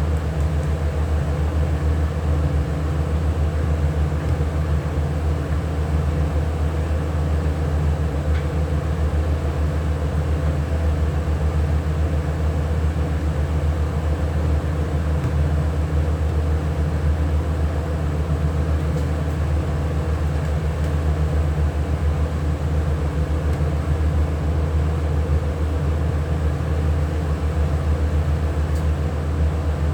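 A steady low machine hum with an even droning pitch, unchanging in level throughout.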